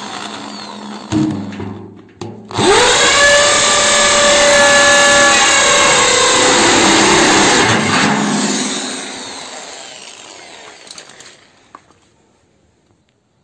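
Rotary hammer drill boring a hole in a steel drum. A short stretch of drilling stops about two seconds in. The motor then spins up with a rising whine, runs steadily for about five seconds, and winds down, fading out near the end.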